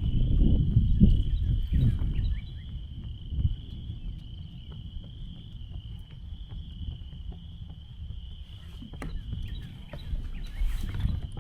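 Insects shrilling with one steady, high-pitched tone throughout. A low rumble, like wind on the microphone, is loud for the first two seconds and then eases off.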